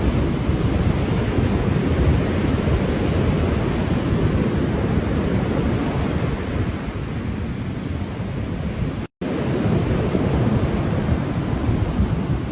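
Ocean waves washing steadily as surf, with wind buffeting the microphone. The sound cuts out for an instant about nine seconds in.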